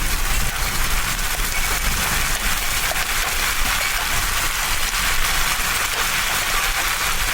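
Wind-driven hail and rain pelting down in a severe thunderstorm: a dense, steady hiss with many small sharp hits, over a low rumble of strong wind.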